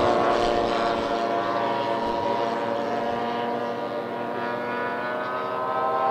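Model aircraft engines of a large radio-controlled scale B-17 running together as a steady multi-tone drone with propellers. It eases off slightly midway and grows louder again near the end.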